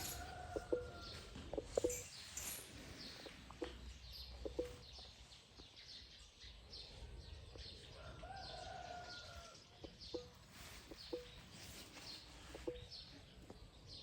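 Birds calling: a run of short, high falling chirps and sharp short notes, with a longer drawn-out call once at the start and again about eight seconds in.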